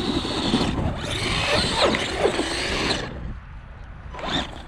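Arrma Gorgon 1/10 RC monster truck driven in bursts: its electric motor whines and its tyres scrabble over the ground in two spells of throttle, a short one and then a longer one of about two seconds, with a brief third spurt near the end.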